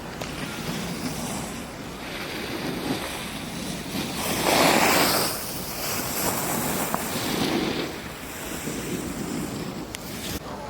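Snow scraping and hissing under the edges of skis or a board on a run down a groomed ski slope, with wind buffeting the microphone. A louder scrape about four and a half seconds in, lasting about a second, like a hard turn digging into the snow.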